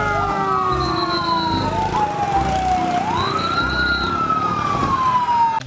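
Fire engine siren wailing, with more than one siren overlapping. Its pitch rises quickly and then falls slowly, repeating about every three seconds.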